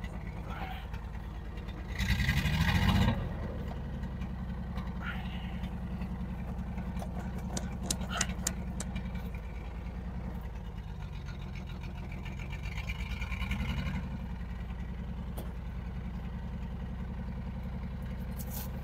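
Holden HX ute's engine idling steadily, blipped up and back down about two seconds in and revved again more gently about two-thirds of the way through.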